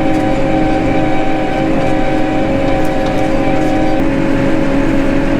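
Farm tractor engine running steadily under a constant load, with a steady whine over the engine noise.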